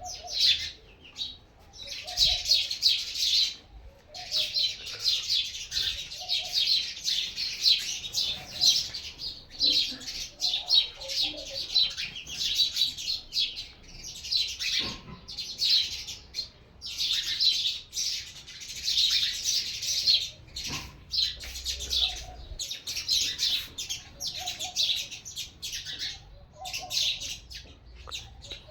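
Small birds chirping and chattering, many quick high notes in bouts of a second or two broken by short pauses.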